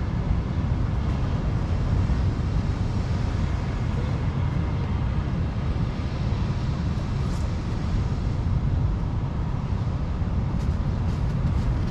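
Strong wind buffeting the microphone, a steady low rumble without a break, with the roar of rough surf likely mixed in.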